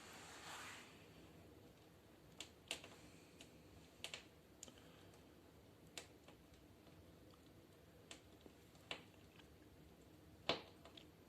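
Faint, irregular sharp pops and clicks from a wood fire burning in a fireplace stove, about ten of them spread unevenly, the loudest near the end. A short soft rush of noise comes at the very start.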